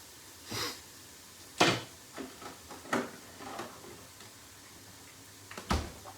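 Kitchen handling noises as chicken wings are added to the pan: a handful of separate knocks and clatters, the loudest about one and a half seconds in.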